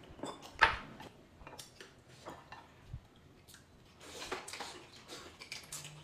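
Tableware clinking: scattered light knocks and clicks of dishes and utensils, the sharpest about half a second in and a cluster about four seconds in.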